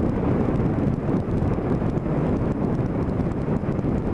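Motorcycle cruising down the road, its engine running steadily under a constant rush of wind on the microphone.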